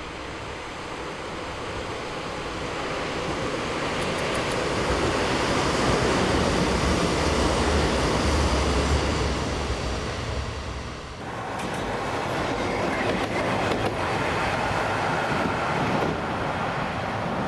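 A train running by, its rumble building to a peak over the first several seconds. About eleven seconds in, the sound changes abruptly to a clatter of wheels with repeated clacks over rail joints.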